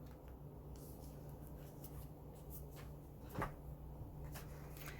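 Quiet room with a steady low hum, a few faint clicks and one short knock about three and a half seconds in.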